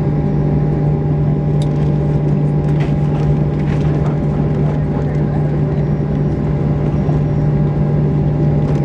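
Steady cabin noise of a Boeing 737-800 on the ground after landing: a constant low hum with a few steady higher whining tones and no change in pitch.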